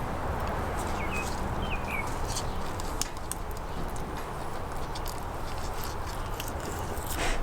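The Grohmann No. 2 Trout & Bird knife blade makes irregular small clicks and scrapes against a trout's rib bones as the fillet is worked down the rib line. A steady low rumble runs underneath, and faint high chirps come about a second in.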